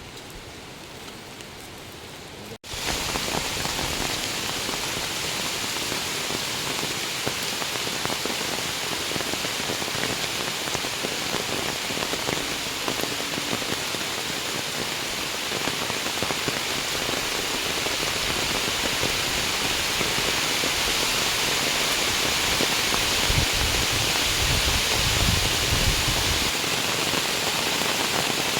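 Heavy rain pouring down, a steady dense hiss that gets abruptly louder about two and a half seconds in. A low rumble comes through for a few seconds near the end.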